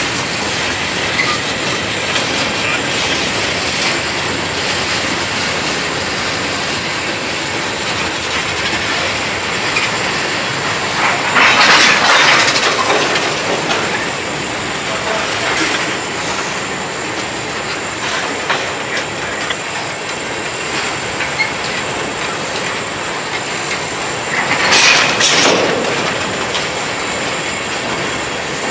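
Freight cars of a mixed freight train, boxcars and a tank car, rolling past: steady wheel-on-rail noise and clatter, with two louder surges of wheel noise, one near the middle and a louder one near the end.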